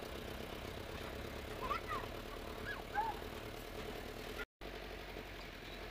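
Vehicle engine running at low speed, heard from inside the cab while driving down a dirt lane, with a few short high chirps over it about two to three seconds in. The sound breaks off for an instant about four and a half seconds in.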